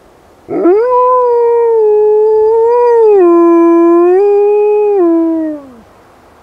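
Wolf dog howling: one long howl of about five seconds that swoops up at the start, steps down and back up in pitch midway, and slides down as it fades out.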